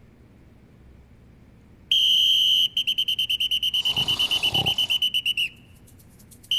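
A pea whistle blown hard, starting about two seconds in: one long shrill blast, then a fast warbling trill for about two and a half seconds, sounding the call for an emergency assembly.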